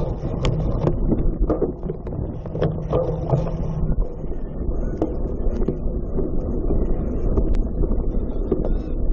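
Cyclocross bike ridden over a rough course: a steady low rumble with frequent knocks and rattles, and wind on the microphone.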